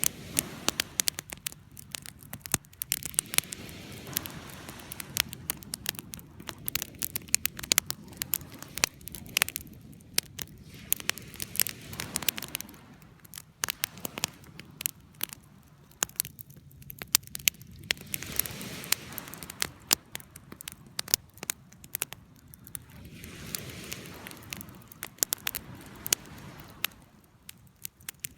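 Campfire of burning wood crackling, with frequent irregular sharp pops and snaps over a soft steady hiss of the flames.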